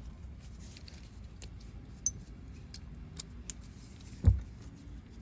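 Light metallic clicks and ticks of small screws and a hand tool being handled while a blower motor resistor is fastened in place, with a sharper click about two seconds in and a dull thump a little after four seconds.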